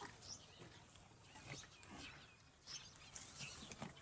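Faint, scattered bird chirps over quiet outdoor background noise.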